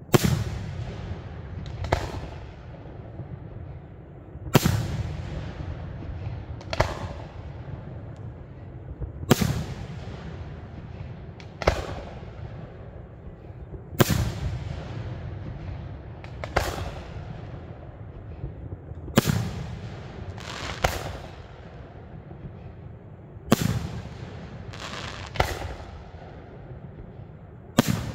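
Aerial firework shells bursting one after another, a sharp bang about every two to two and a half seconds, each trailing off in a low rumbling echo; about a dozen bangs in all.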